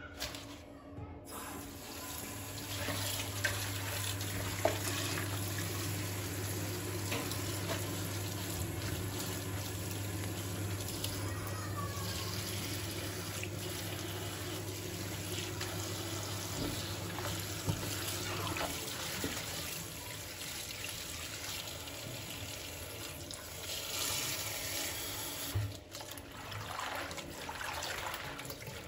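Kitchen tap running steadily into a sink, with a low hum alongside for much of it and a few small knocks; the water stops near the end.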